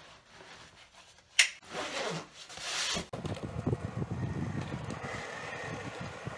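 A sharp click, a short whirring swell, then from about three seconds in a motorcycle engine running steadily with an uneven low pulse.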